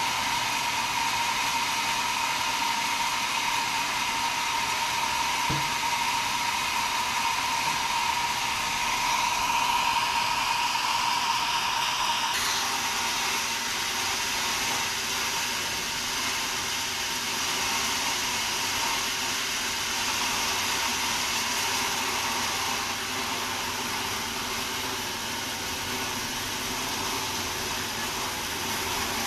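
Sawmill machinery running steadily, with a steady high whine that stops abruptly about twelve seconds in, after which the running noise carries on.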